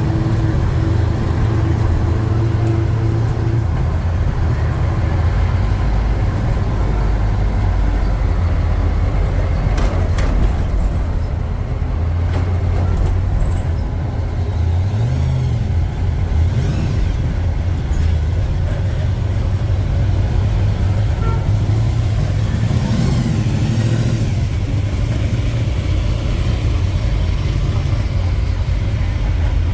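1948 Ford F5 bus driving, its engine running steadily under road noise, with a brief rise and fall in engine pitch about halfway through.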